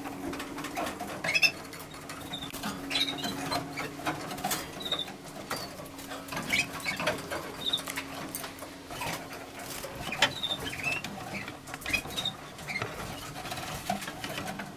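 Canaries in their breeding cages giving short, scattered chirps and calls, with light clicks and scratching of birds moving about the cage, over a steady low hum.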